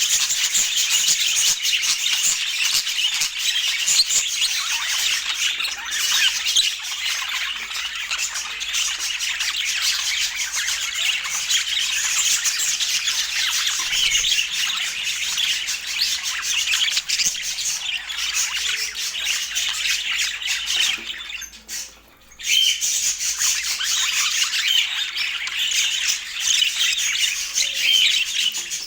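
Budgerigars chattering and squawking without a break, busy and high-pitched, pausing briefly about three quarters of the way through.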